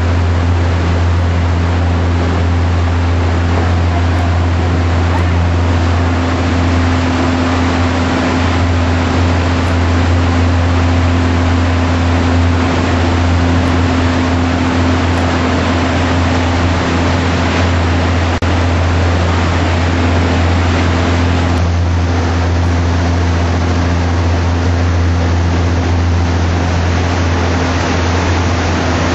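Cruise boat's engine running with a steady low drone, under an even rushing noise of wind and water.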